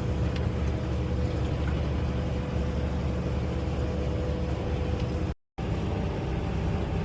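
Semi truck's engine and road noise droning steadily inside the cab while driving. The sound cuts out completely for a moment about five seconds in, then the same drone resumes.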